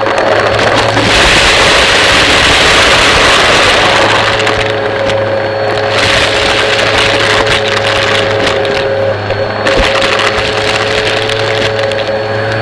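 Vacuum cleaner running loudly: a steady motor whine over rushing air noise. The hiss of the air swells and drops back every few seconds.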